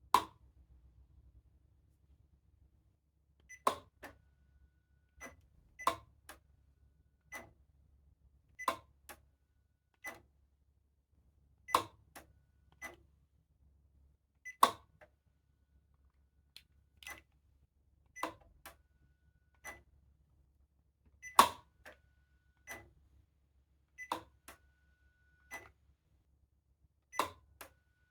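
A series of sharp clicks, roughly one every second or so and uneven in loudness, with a faint high tone heard briefly between some of them.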